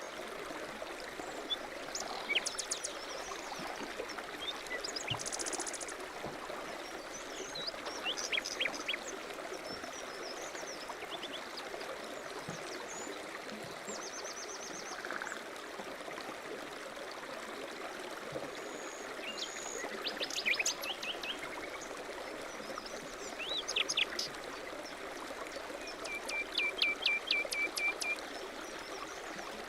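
Mountain stream running steadily, with songbirds chirping and trilling over it at intervals, including a quick run of repeated notes near the end.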